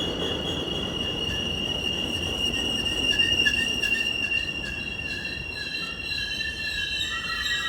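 Train wheels squealing on the rails: a steady high-pitched squeal over the low rumble of the passing train.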